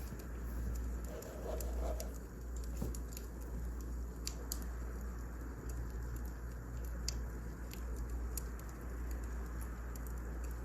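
Wood fire crackling: a steady low rumble of flames with sharp, irregular pops and snaps.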